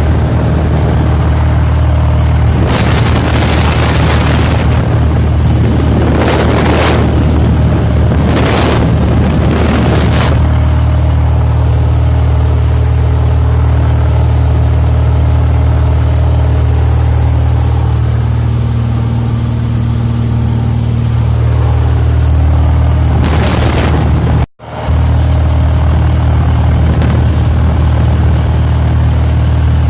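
Cessna 172E's six-cylinder piston engine running at a steady drone, heard close and loud through a phone microphone. Several short surges of rushing noise come in the first third, and the sound drops out for a moment about three-quarters of the way through.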